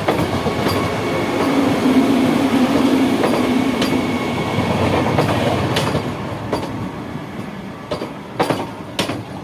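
Train running on the track: a steady rumble with a humming tone and sharp clacks of wheels over rail joints, some coming in pairs. The sound fades over the last few seconds.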